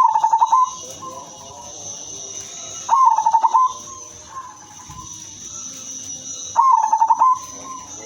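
Female zebra dove (perkutut) cooing: three short phrases of rapid staccato notes, about three seconds apart.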